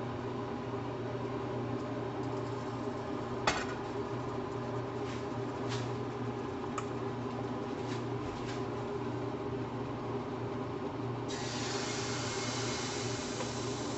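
Pancake batter sizzling in hot oil in a frying pan, the hiss starting abruptly about eleven seconds in. Before it come a few light clicks over a steady low hum.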